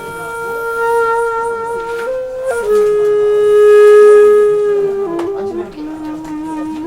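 Background music: a flute-like wind instrument playing slow, long held notes, stepping down in pitch, with the note in the middle swelling loudest.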